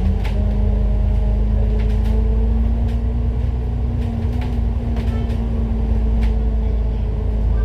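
Citybus bus heard from on board while under way: a deep engine and road rumble with a steady drone that rises slightly in pitch, then holds. Light rattles and clicks come through now and then.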